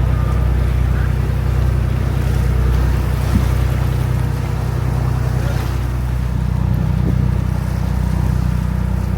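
Boat engine running steadily under way, a constant low drone with water noise over it.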